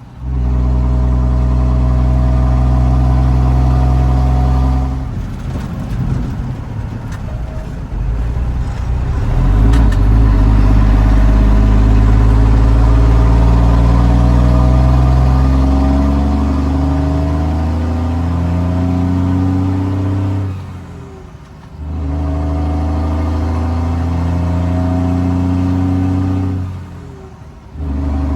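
Straight-piped Cummins L10 inline-six turbo diesel in a 1986 Ford L9000 dump truck, running loud and accelerating, its pitch climbing in steps. It drops off twice near the end for about a second before coming back, as at gear changes.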